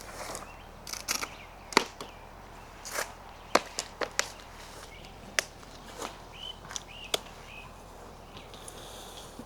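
Footsteps outdoors: about a dozen sharp, irregular snaps and taps, like steps on dry twigs and ground litter. A few faint high chirps come around seven seconds in.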